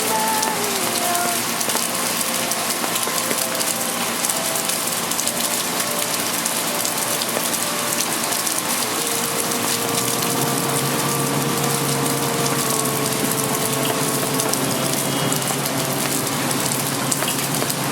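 Rain falling steadily, a dense hiss of countless drops pattering and ticking on hard surfaces. About halfway through, a low steady hum joins it.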